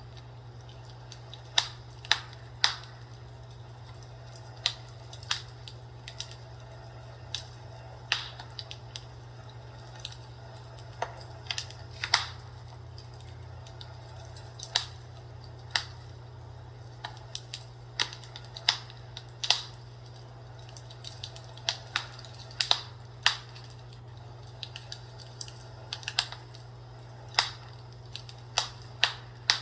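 Fireplace crackling: irregular sharp pops and snaps, a few every second or two, over a steady low hum.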